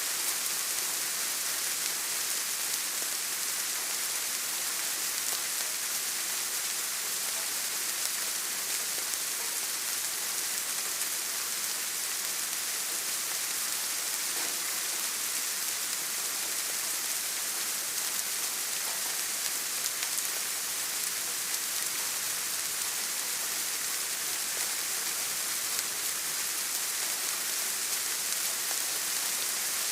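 Steady rain falling, an even hiss of many fine drops with no breaks or thunder.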